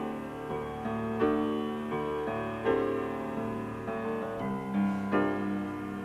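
Live rock-band recording in which piano chords lead, struck in a rhythmic pattern over a bass line. The sound is dull, with little treble, as from an FM broadcast taped onto cassette.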